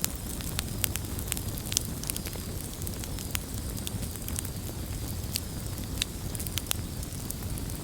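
Wood fire burning, with a steady low rumble of the flames and irregular sharp pops and crackles of burning wood, several a second.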